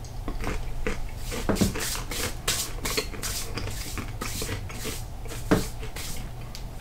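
Crisp crunching of a mouthful of seasoned whole crickets being chewed, several crunches a second, one louder about five and a half seconds in.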